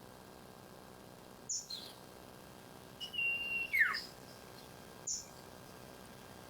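Sirtu (green iora) calling in sparse whistled notes: a short high note, then about three seconds in a held whistle that ends in a falling slur, and another short high note a second later.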